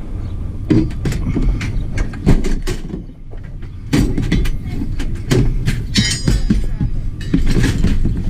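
Scrap metal being pulled from a junk pile: a run of clanks and knocks over a steady low rumble, with a short lull about three seconds in.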